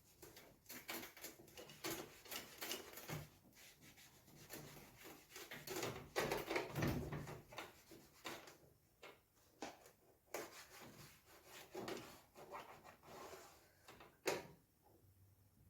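Wiping down the inside of a microwave: irregular rubbing strokes of varying length, with a sharp knock near the end.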